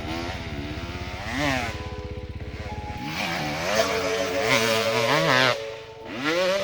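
An off-road bike's engine revving hard, its pitch climbing and dropping several times as the throttle is worked, with steady music tones underneath.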